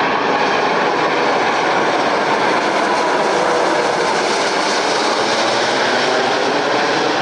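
Turbofan engines of a Turkish Airlines Airbus A330 airliner giving off a loud, steady jet roar with a faint whine in it.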